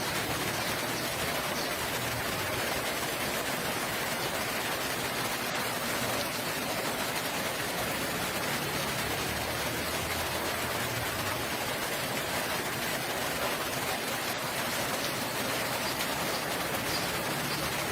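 Steady rain falling, an even wash of noise that holds constant throughout.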